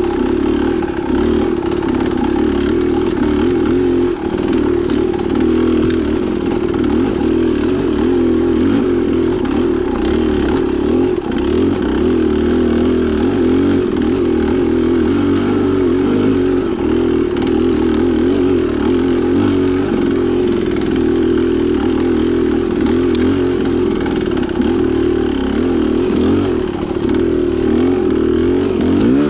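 Dirt bike engine running continuously as it is ridden, its pitch rising and falling constantly with the throttle.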